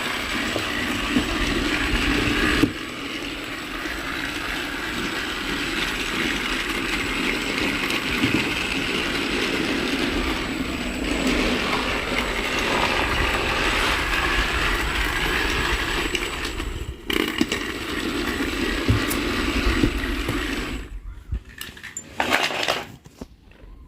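Battery-powered motorised toy train running steadily with a whirring motor and rattling wheels, stopping about 21 seconds in; a few light clicks and knocks follow.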